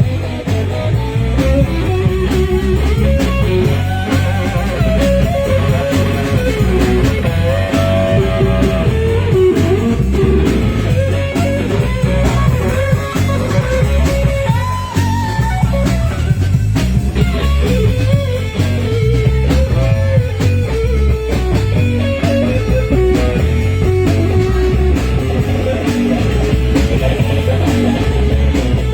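A live blues-rock band playing an instrumental passage with no singing: an electric guitar plays a lead line that bends and wanders over a steady, heavy low end.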